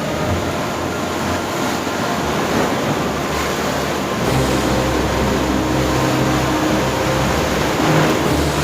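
Steady rush of wind and sea noise. About four seconds in, a steady low motor hum joins it.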